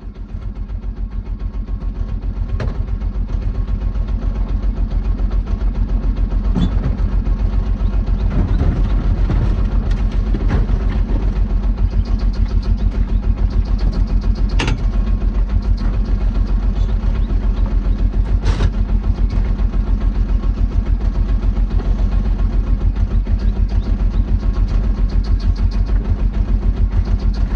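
An engine running steadily with a deep, fast, even throb. It builds up over the first couple of seconds and then holds, with a few sharp knocks scattered through it.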